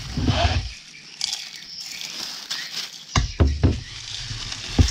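Hands mixing a dry salt-and-chili seasoning and rubbing it onto a whole raw chicken: scratchy rustling and scraping, with a few soft thumps in the second half.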